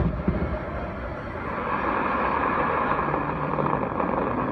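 Distant fireworks: a burst's echo rolling off at the start, then a steady rushing hiss that swells about a second and a half in.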